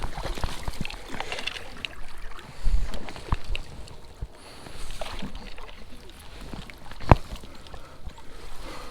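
Water sloshing and splashing as a large hooked brown trout thrashes in the shallow creek while it is played in, over the running creek, with a sharp knock about seven seconds in.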